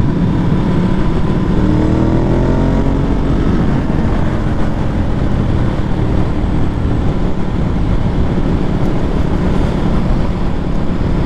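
Ducati 1098's L-twin engine running under way, its note climbing in pitch from about two to four seconds in as the bike accelerates, then holding steady. A heavy rumble of wind on the rider's microphone runs under it.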